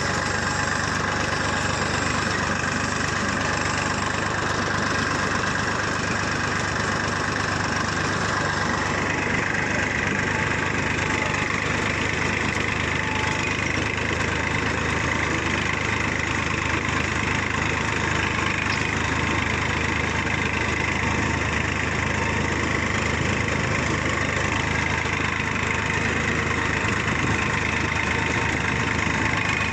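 Tractor's diesel engine running steadily, its tone shifting slightly about nine seconds in.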